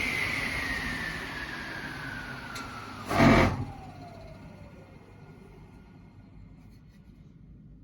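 A woodworking power tool's motor spinning down after being switched off, its whine falling steadily in pitch and fading. A short loud knock comes about three seconds in, after which a lower whine keeps falling away until it dies out.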